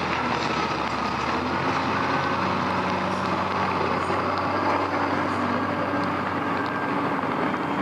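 Heavy machinery running steadily in heavy rain, the engine noise and the hiss of the rain making one continuous din.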